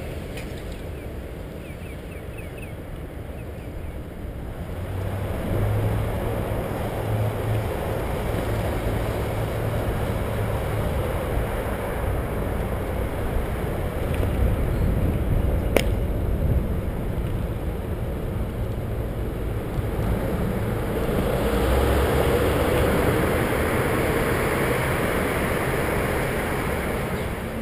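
Wind rushing over the microphone with the rumble of a bicycle rolling along a paved trail. There is a single sharp click about sixteen seconds in, and the rushing grows louder for the last several seconds.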